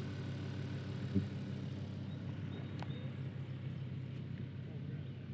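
A car engine idling steadily, with a faint knock about a second in.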